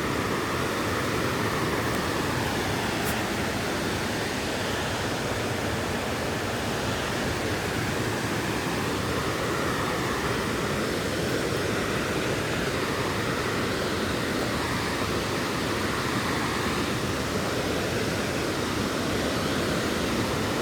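Steady rush of water from a river waterfall, an even noise that holds constant throughout.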